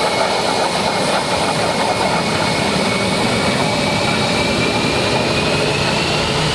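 Engines of an Air Force aircraft running, a loud steady noise with a high whine that sags and then climbs near the end.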